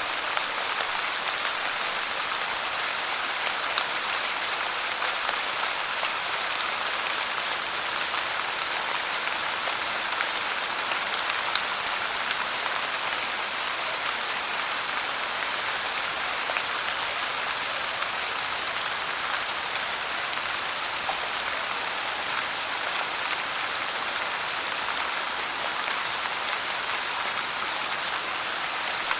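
Steady pouring rain, an even hiss with fine scattered drop ticks.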